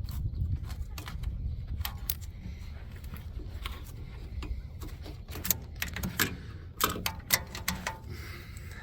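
Wrenches clinking and clicking against metal parts under a truck: irregular sharp metallic ticks, bunched together in the second half, as a wrench is worked in to hold a starter stud that turns along with its nut.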